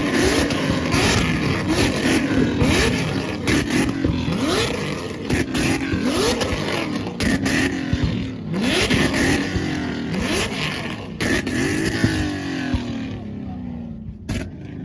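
Car engine revved hard in quick repeated blips, each rising in pitch and falling back, with sharp cracks between them; the revving dies away near the end.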